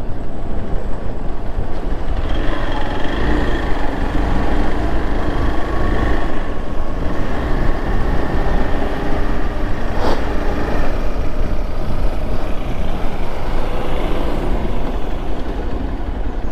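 Motorcycle running steadily while being ridden, its engine hum under heavy wind rush on the microphone, with a single sharp click about ten seconds in.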